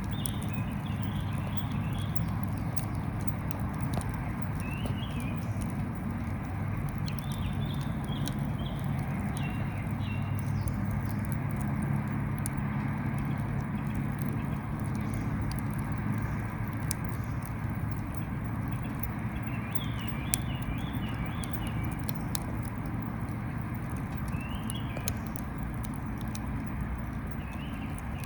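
Wood fire crackling and popping in a small grill, over a steady low rumble, with faint high chirps a few times.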